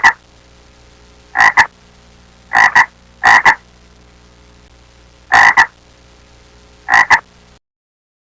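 A frog croaking: six loud croaks, each a quick double pulse, spaced unevenly over a faint steady hum, then the sound cuts off.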